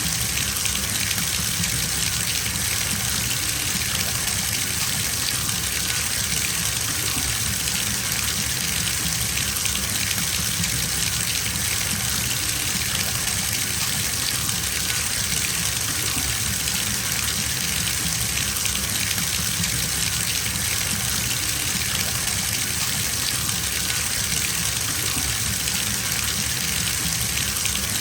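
Bathtub tap running, water pouring steadily into a filling tub as an even, unbroken gush.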